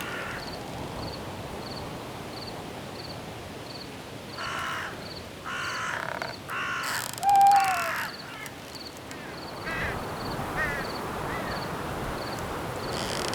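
A crow cawing four harsh times in quick succession, over a cricket's steady chirp that repeats about every two-thirds of a second, and a constant wind hiss through the trees.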